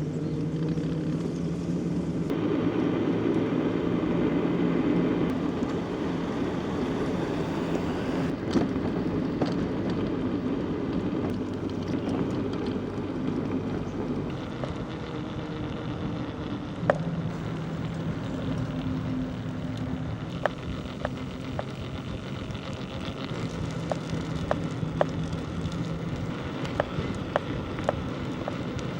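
Ambient sound of a bicycle ride on a country road: steady rumbling noise of wind and rolling tyres, with a low hum that fades in and out. Scattered sharp clicks and ticks join in the second half.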